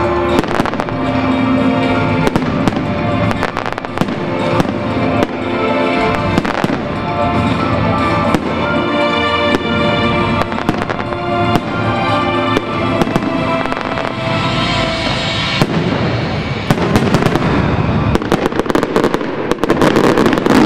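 Fireworks shells bursting with sharp bangs over music played alongside the display. About sixteen seconds in, the music fades under a dense, rapid run of bangs.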